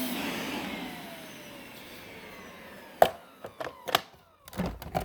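Hoover TurboScrub carpet cleaner's motor switched off and winding down, its whine falling in pitch and fading over the first two seconds or so. Then several sharp clunks and knocks as the machine is handled, the loudest about three seconds in.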